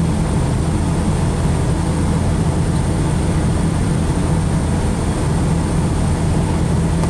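Rally car engine idling steadily, heard from inside the cabin, with no revving.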